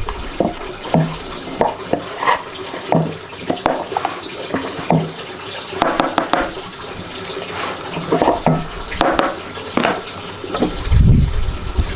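Water splashing and sloshing in short, irregular bursts, as in washing by hand, with a deep thump near the end.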